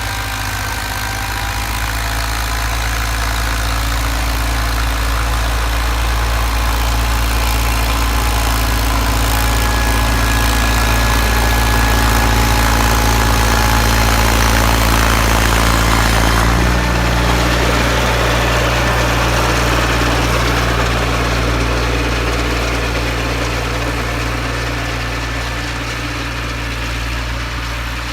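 John Deere 318 garden tractor's engine running steadily with its Model 49 snowblower, with a higher steady whine over the engine note. The engine's tone shifts slightly about two-thirds of the way through.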